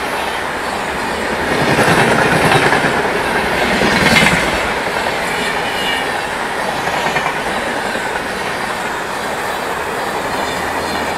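Passenger train running on the track: a steady rumble with the wheels clattering over the rail joints.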